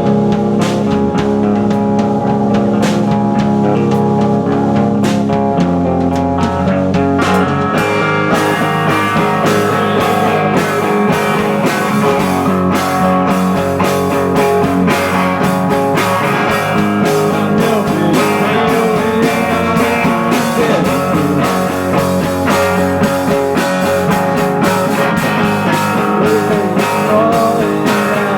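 Live rock band playing loud music, with electric guitar over a steady held drone; the sound fills out brighter and denser about eight seconds in.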